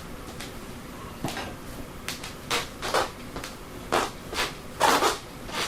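Irregular clunks and knocks from the bare steel go-kart chassis being moved and weighted, about eight sharp knocks in a few seconds, getting louder toward the end.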